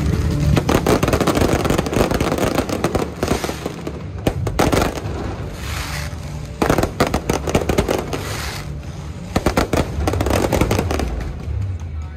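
Fireworks and firecrackers going off in a dense, continuous crackle, with clusters of louder bangs a few seconds in, around the middle and later on.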